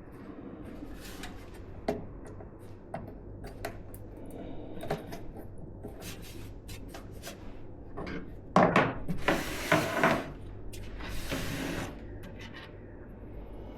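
Hands working on PC parts: scattered small clicks and light knocks, then a louder stretch of rustling and scraping about eight to twelve seconds in.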